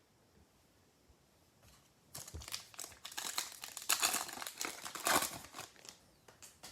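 Foil wrapper of a trading card pack crinkling and tearing as it is handled, starting about two seconds in and dying away near the end.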